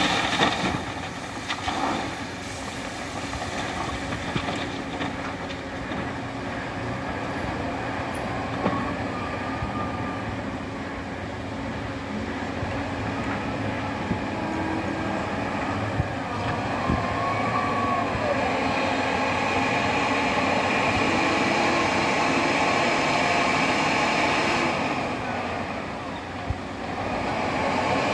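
Scania 164-series 580 V8 diesel truck engine running under way with a steady drone. It swells over several seconds, drops away briefly near the end and picks up again.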